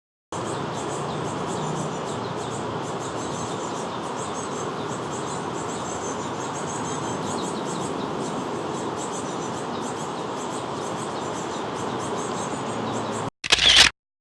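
Steady outdoor field ambience: a continuous rushing haze with fine, high insect chirring over it. The ambience cuts off abruptly near the end, followed by a brief loud burst.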